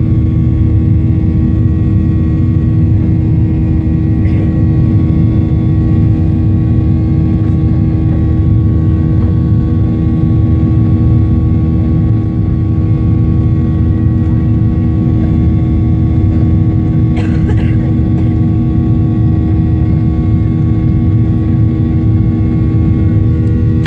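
Boeing 737-800's CFM56-7B jet engines running at high power, a loud, steady noise with constant engine tones and no change in pitch.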